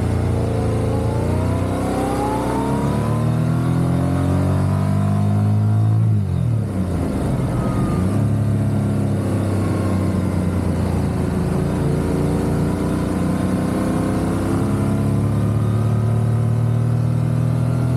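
Motorcycle engine under way. Its pitch climbs for several seconds as it accelerates, drops sharply about six seconds in, then rises slowly again.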